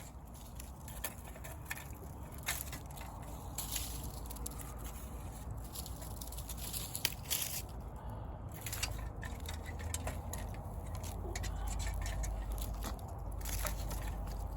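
Wood fire crackling, with irregular sharp pops and snaps over a low rumble that grows louder about halfway through.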